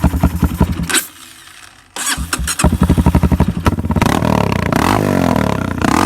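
Honda CRF230F's single-cylinder four-stroke dirt bike engine being started. It turns over, cuts out suddenly for about a second, turns over again, catches about four seconds in and runs with its speed rising and falling.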